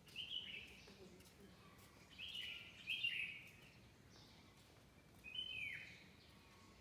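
Birds calling: four short high-pitched calls, one near the start, two close together about two to three seconds in, and one sliding down in pitch near the end, over a faint steady background hum.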